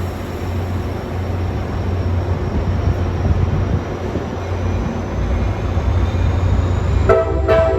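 Metra diesel commuter train departing, its engine giving a steady low rumble. About seven seconds in, the locomotive's air horn sounds one short chord blast.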